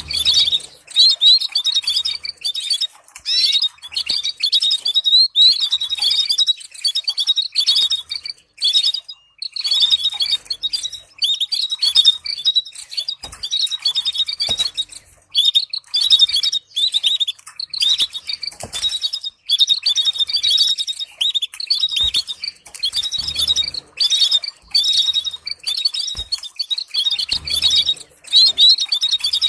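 Canary singing a long, fast run of chirps and trills, hardly pausing, with two short breaks. It is a training song played to prompt canaries to sing.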